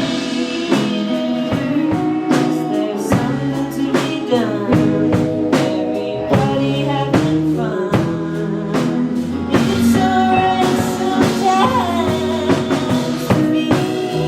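Live indie rock band playing a song: drum kit hits and guitars over bass, with a singer's voice.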